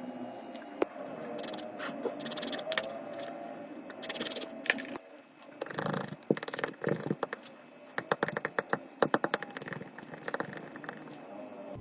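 Hand-tool work on a smartphone: scraping, with scattered sharp clicks and a quick run of clicks about two-thirds of the way in.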